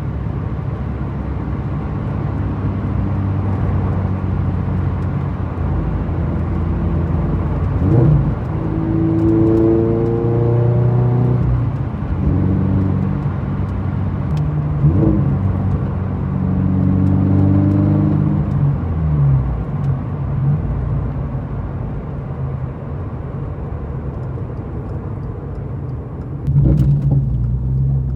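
Toyota GR86's 2.4-litre flat-four with an aftermarket exhaust, driving: it cruises steadily, then pulls with the engine note climbing in pitch two or three times, with a brief sharp rev spike at each gear change.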